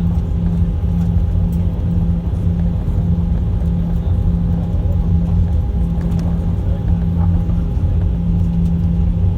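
Steady drone of an airliner's cabin from inside: the engines and air systems running with a constant low hum and no change in pitch.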